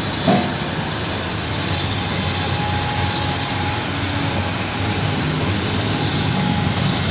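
Heavy diesel vehicle engine running steadily, with a short louder blip about a third of a second in.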